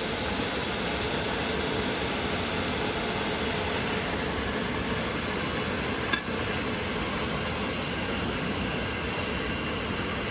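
Gas canister backpacking stoves burning at full flame, a steady hiss, with a single sharp click about six seconds in.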